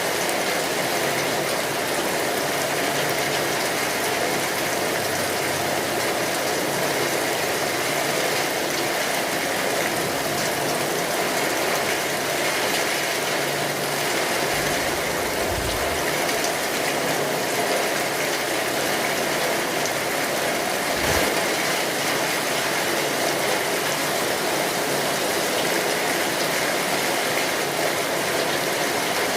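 Steady rainfall, a dense even hiss of drops throughout. Two brief low thumps come about halfway through and again a few seconds later.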